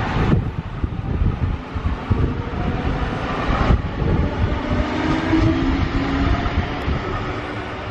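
Freight train passing through at speed: its wagons rumble and clatter over the rails, easing off toward the end as the train moves away.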